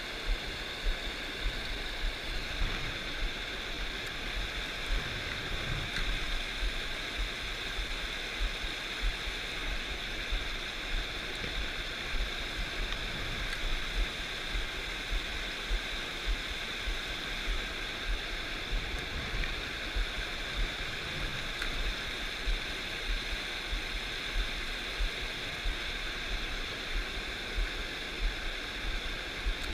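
A fast mountain stream rushing steadily over rocks, with frequent short low thumps on the microphone.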